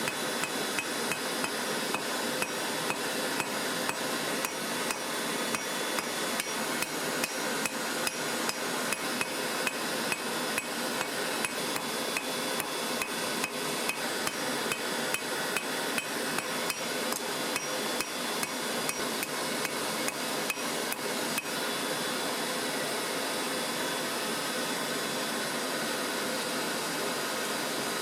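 Hand hammer striking hot steel on an anvil in a steady run of blows, about three a second, which stops about three-quarters of the way through. After that only a steady rushing noise remains.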